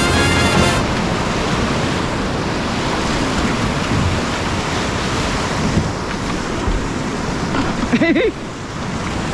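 Steady rush of whitewater in a creek rapid, with a little wind on the microphone. A short wavering high-pitched call cuts in briefly about eight seconds in.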